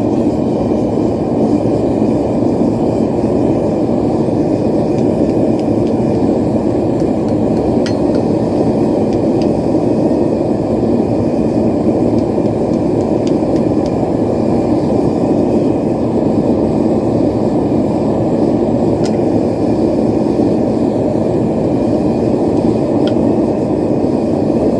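Propane forge burner running steadily and loudly, an even rushing noise with a few faint clicks.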